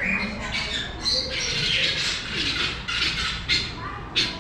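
Several birds squawking and screeching in short, harsh calls that overlap one another and follow in quick succession.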